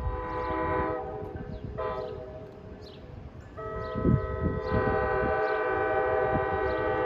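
Train air horn sounding a multi-note chord: two shorter blasts in the first three seconds, then a long held blast starting about three and a half seconds in.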